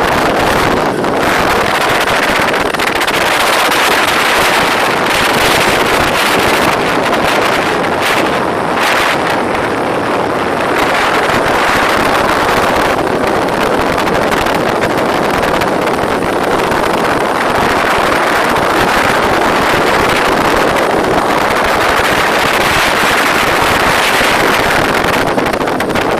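Loud, steady wind buffeting the microphone on a moving motorbike, a rushing noise that drowns out the road and engine.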